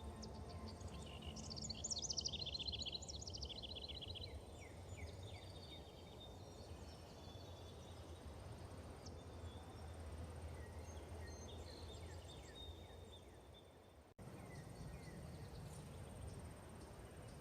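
Forest ambience of several small birds calling and singing, loudest as a quick trill of high notes about two seconds in, over a steady low rumble. Near the end the sound dips, cuts out for an instant and comes straight back.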